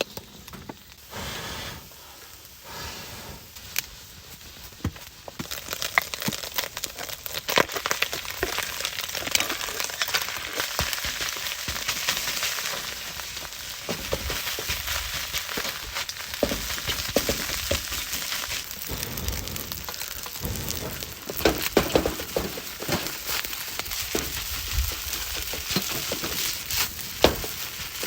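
Fried rice sizzling in a hot pan over a campfire, a steady frying hiss full of small crackles and clicks. It starts sparse and quieter, then grows louder and denser about six seconds in.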